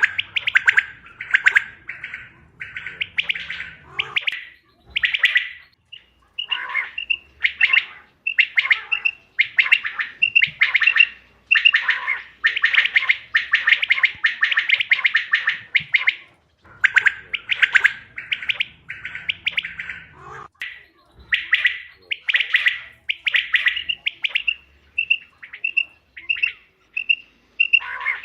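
Quail calls used as a hunting lure: trilled calls repeated in quick series, with two stretches of short, single high pips about twice a second.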